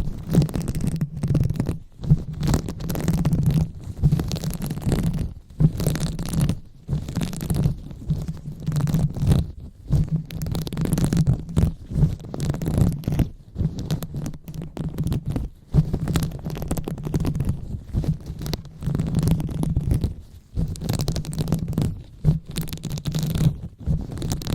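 Fingers rubbing and massaging directly on a microphone, giving close, muffled low rumbling with scratchy texture, in irregular strokes broken by brief pauses.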